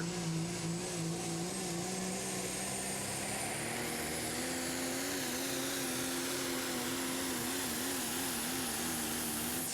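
Super stock diesel pulling truck's engine running after a pull, its note wavering and edging up slowly, with a thin high-pitched turbo whine over it.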